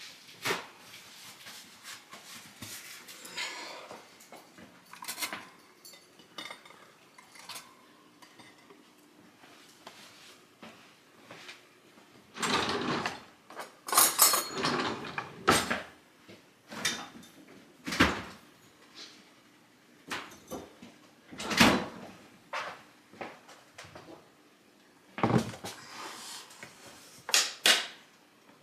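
Things being handled and set down: scattered knocks and clicks with some rustling, several sharp knocks between about 12 and 16 seconds in and near the end.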